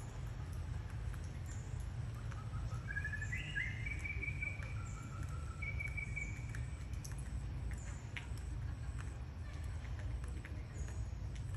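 A series of high, whistled chirping calls in the middle, over a steady low rumble of outdoor noise.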